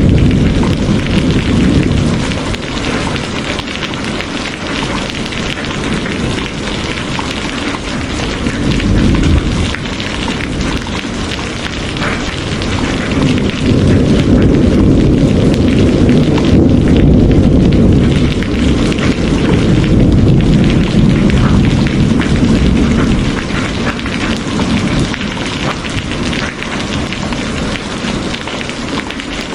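Heavy rain falling steadily, with low rolling rumbles of thunder that swell and fade, the longest and loudest through the middle stretch.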